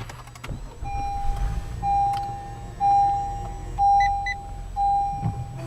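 2014 Acura RLX's 3.5-litre V6 starting at the press of the push-button and settling into an idle. Over it, a single steady electronic tone repeats about once a second.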